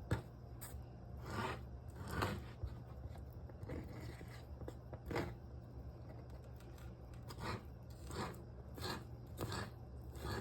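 Sliced ham and cheese being cut into small pieces: about a dozen short, separate cutting strokes at an uneven pace.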